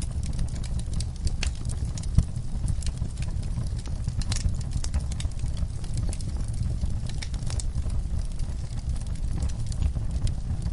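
Wood fire burning in a fireplace, crackling with frequent sharp pops over a low steady rumble; one louder pop about two seconds in.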